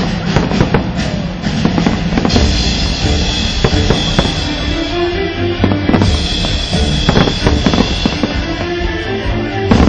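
Aerial fireworks going off in many irregular bangs, over music with a drum beat.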